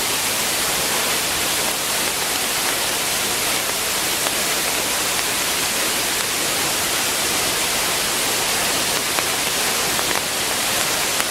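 Waterfall pouring steadily after heavy rain: a constant, even rush of falling water that is brightest in the high end.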